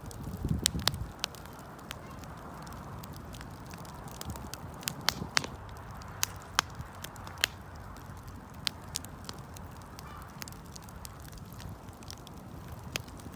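Wood fire burning: a steady low rush of flames with sharp crackles and pops scattered irregularly through it, several close together about five seconds in.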